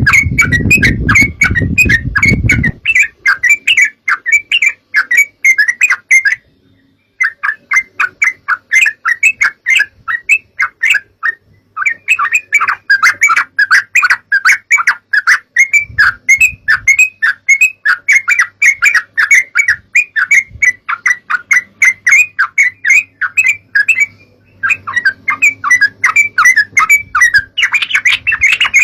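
Yellow-vented bulbuls (trucukan) calling in a fast, continuous chatter of short bubbly notes, broken by a few brief pauses. A low rumble runs under the first two seconds or so.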